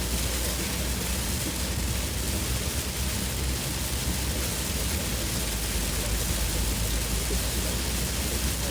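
Heavy monsoon rain pelting a moving car's roof and windscreen as a steady hiss, with a constant low rumble of the car and road underneath.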